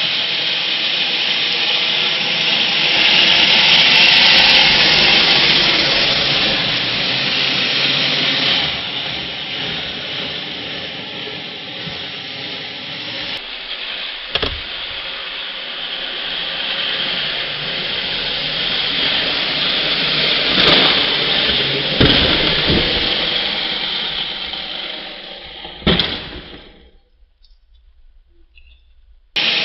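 Radio-controlled truck running: a steady, noisy mechanical whir of its motor and drivetrain, with a few sharp knocks, the loudest about 26 seconds in. The sound then fades out.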